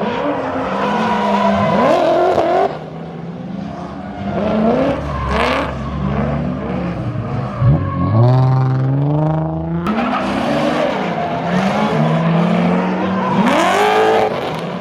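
Drift cars' engines revving hard, the pitch climbing and dropping again and again under throttle, with one long high rev that cuts off sharply near the end.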